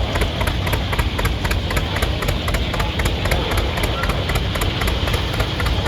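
John Deere Model D's two-cylinder engine running with a steady, evenly spaced popping exhaust beat.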